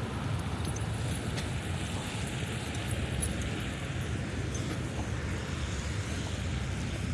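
Steady rainy-day city street noise: a low traffic rumble and wet hiss, with a few faint ticks.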